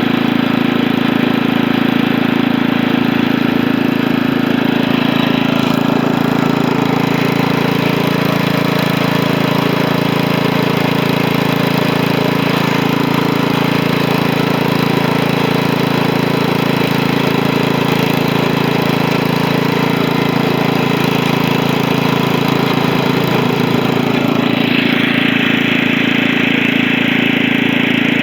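Freshly rebuilt Tecumseh engine of a Wheel Horse Lawn Ranger garden tractor running steadily while the tractor is ridden. A higher hiss joins near the end.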